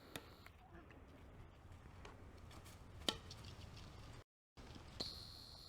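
Quiet background with a few faint knocks, the clearest about three seconds in, and a brief total dropout shortly before the end.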